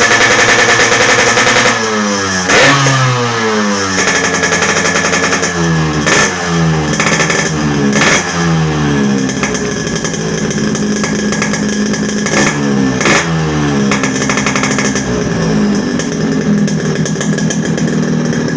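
Yamaha RX-King two-stroke single-cylinder engine through a hollowed-out (bobok) exhaust, held at high revs at first. It is then blipped over and over, the revs falling back after each blip, with a few sharp cracks from the exhaust. It settles to a steadier, lower run near the end.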